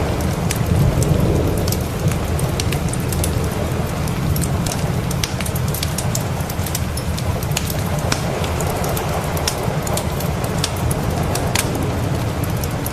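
Steady rain with a low, continuous thunder rumble underneath, and the sharp pops and crackles of a wood fire scattered irregularly throughout.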